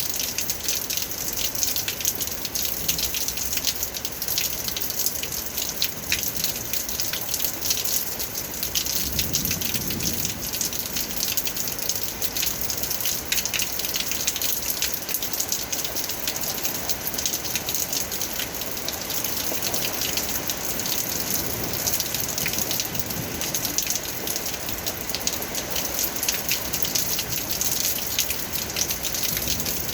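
Rain falling steadily: a constant hiss thick with the patter of individual drops hitting a surface.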